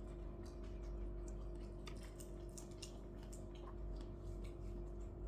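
Eating sounds: scattered small clicks and taps, with chewing, over a steady low hum.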